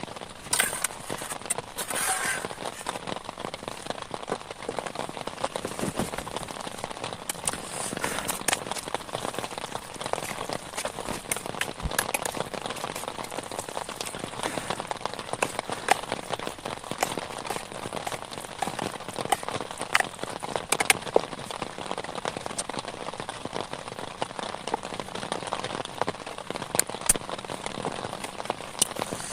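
Steady rain falling, with many sharp individual drop hits scattered through it.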